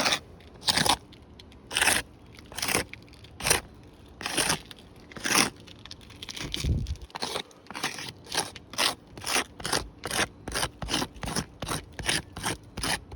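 Footsteps crunching on gritty asphalt roof shingles, about one step a second at first, quickening to two or three a second from about halfway.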